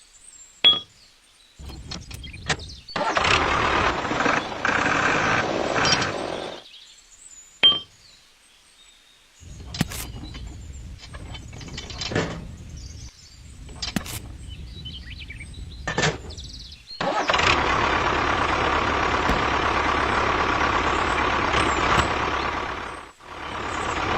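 A small engine running in several separate stretches, broken by sharp clicks and short gaps, with the longest steady run near the end.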